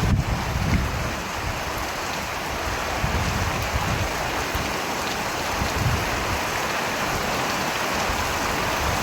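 Steady heavy rain falling, an even hiss with a low rumble that comes and goes underneath.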